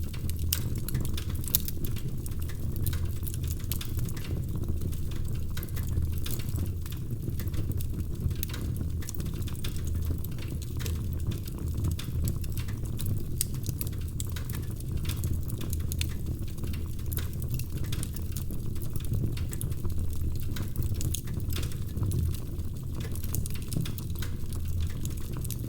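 Wood fire crackling: a steady low rumble with many small, irregular pops and snaps.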